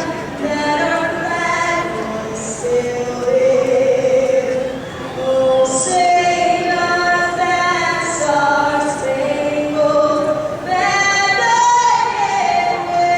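A woman singing a national anthem, holding long notes that step up and down in pitch.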